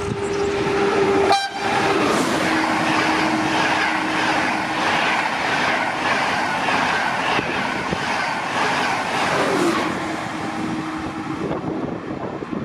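A train running through the station: loud rolling noise with a rhythmic clatter, about twice a second, as the wheels cross rail joints. A steady horn tone sounds throughout and glides lower in pitch near the end.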